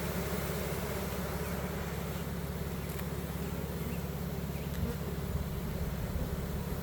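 Honeybees buzzing steadily around their hive.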